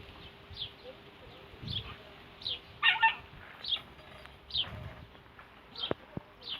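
Outdoor birdsong: a small bird repeats a short, high, falling chirp about once a second. About three seconds in there is one louder, harsh squawk, which is the loudest sound here.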